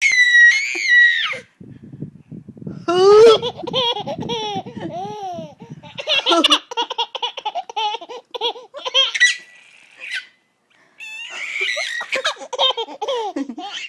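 A baby laughing in repeated bursts of high-pitched giggles and squeals, with short pauses between them.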